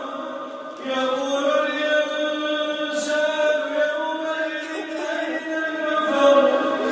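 A man's voice reciting the Quran in a slow melodic chant, drawing out long held notes, with a new phrase beginning about a second in.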